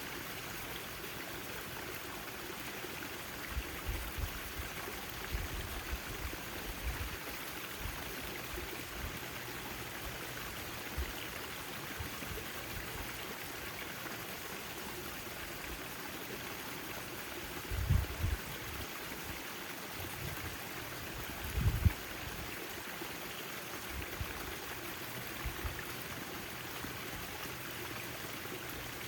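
Backyard garden fountain with water splashing and trickling in a steady wash. A few low bumps break in now and then, the two loudest a little past the middle.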